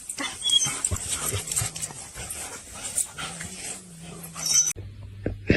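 A dog making small, irregular sounds at a moderate level, with no clear barks.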